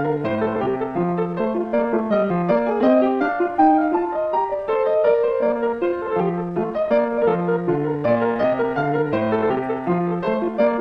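Piano music: a continuous run of notes with a steady pulse.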